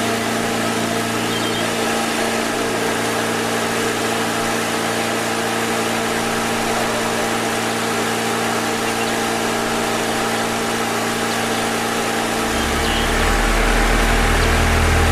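A small engine or motor running steadily with an even hum. About twelve seconds in, a deeper, louder hum joins it.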